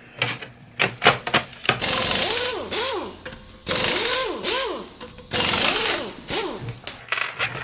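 Screws being driven to fasten a desktop computer case's side panel: a run of short scraping bursts, each about half a second, with squeaky pitch sweeps rising and falling between them.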